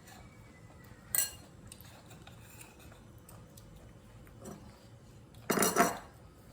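Spoon and bowl clinking: a short sharp clink about a second in, a faint knock later, then a louder clatter about half a second long near the end.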